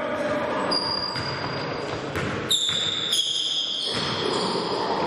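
Basketball game play in a sports hall: a ball bouncing on the court and sneakers squeaking in short, sharp high-pitched chirps, over the echoing noise of the hall.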